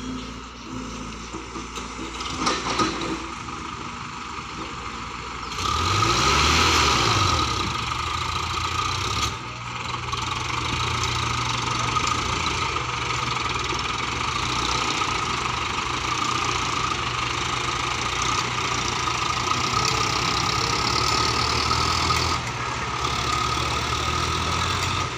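Engine of the digging and hauling machinery running steadily, then revving up and getting louder about five and a half seconds in, and holding a steady working speed after that.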